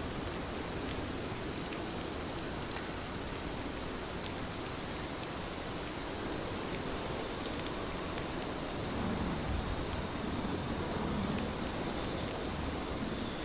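Heavy rain falling steadily, with scattered individual drop ticks over the hiss. About nine seconds in, it grows a little louder for a couple of seconds.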